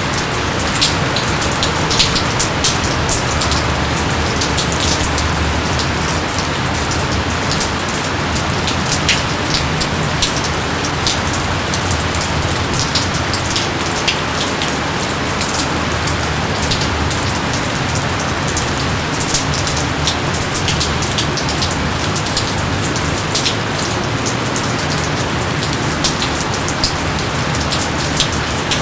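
Steady heavy rain, a dense even hiss with many close drops ticking and splashing on leaves and surfaces.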